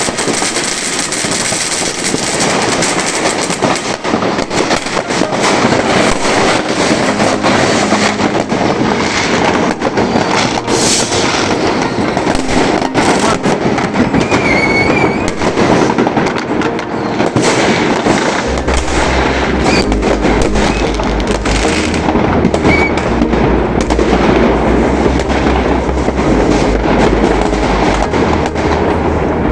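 Many fireworks and firecrackers going off at once, a dense, continuous barrage of bangs and crackles. A low, steady rumble joins about two-thirds of the way through.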